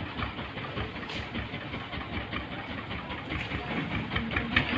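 An engine running steadily, with a rapid low pulsing.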